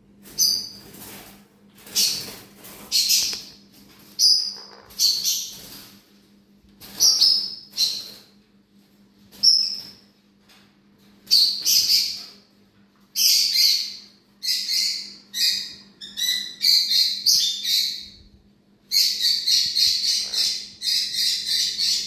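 A bird chirping in short, shrill, high calls, at first one every second or so, then more closely bunched, and from near the end a rapid unbroken run of chirps.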